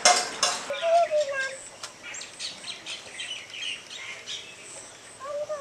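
Birds chirping: a quick run of short, high chirps.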